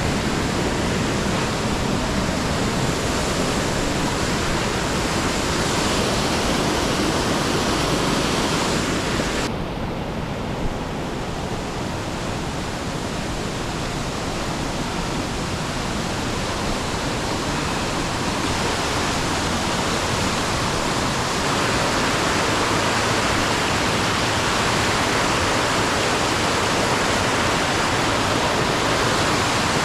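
Steady loud rush of water, like heavy rain or a fast stream. About nine and a half seconds in, the hiss abruptly loses its highest part, then builds back up.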